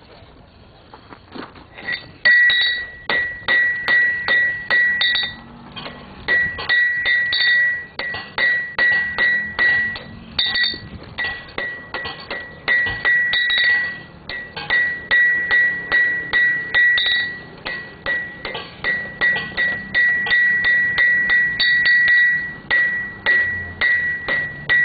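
Blacksmith's hammer striking metal on an anvil, about two or three blows a second in runs with short pauses, each blow leaving the anvil ringing with a clear high tone. The hammering starts about two seconds in.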